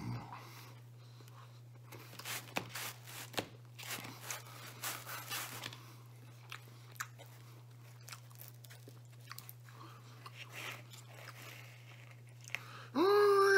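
Close-up chewing and crunching of pizza crust: scattered crisp crunches and mouth clicks over a steady low hum. Near the end a dog suddenly starts howling loudly, one long wavering howl.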